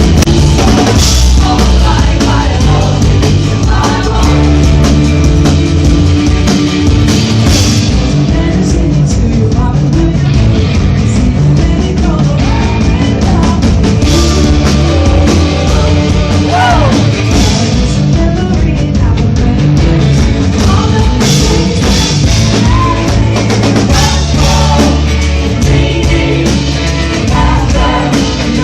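Live rock music played loudly on stage, with a full band sound and a strong, steady bass.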